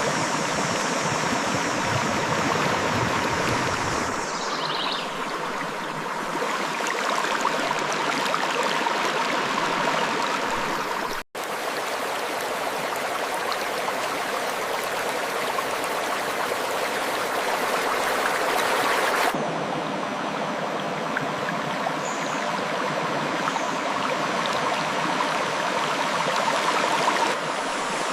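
River water flowing and splashing over rocks: a steady, dense rushing. It cuts out for an instant about eleven seconds in, and its tone shifts abruptly a few times.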